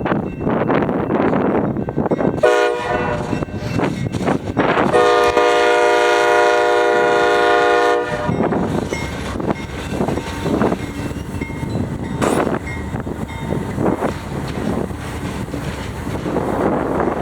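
Locomotive horn sounding a chord of several tones, starting about two and a half seconds in and then held in one long steady blast for about three seconds, over the rumble of a passing train.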